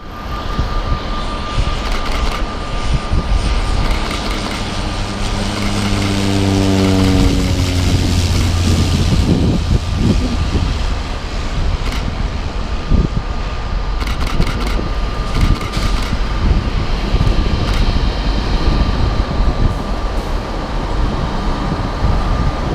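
Single turboprop engine and propeller of a Cessna Grand Caravan passing by, its droning pitch falling steadily over the first eight seconds or so as the aircraft goes past. After that it gives way to a steady rumbling noise.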